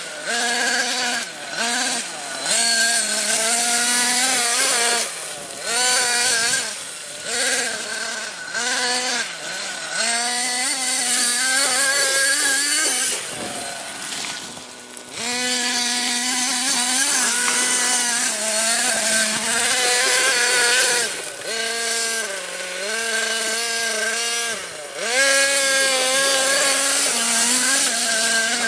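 Electric motor and gears of a remote-control vehicle whining as it is driven, the pitch rising and falling with the throttle and breaking off in short pauses several times.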